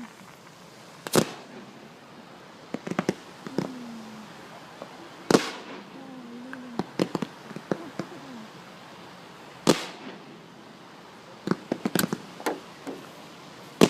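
Fireworks going off: three loud single bangs, about a second in, just past five seconds and near ten seconds, with quick clusters of smaller crackling pops in between.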